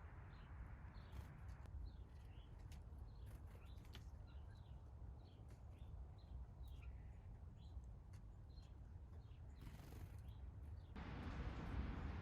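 Small backyard songbirds chirping faintly: a scattered string of short, high chirps, most dropping in pitch, over a steady low rumble.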